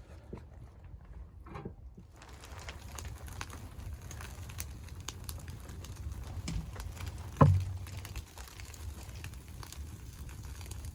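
Wood fire crackling in a stove, with many small sharp pops over a steady low rumble. One loud knock comes a little past seven seconds in.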